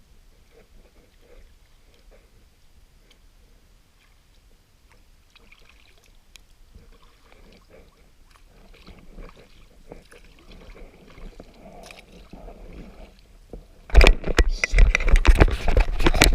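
Kayak on the water: faint, irregular paddle and water sounds with soft knocks. Near the end a loud, rough crackling rush sets in.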